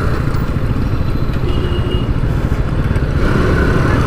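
Bajaj Pulsar NS200's single-cylinder engine running steadily under way, a dense even rumble.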